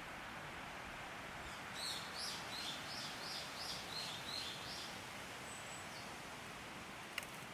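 A small bird sings a run of about eight short, high chirps, roughly three a second, over a steady hiss of outdoor background noise. A single faint click comes near the end.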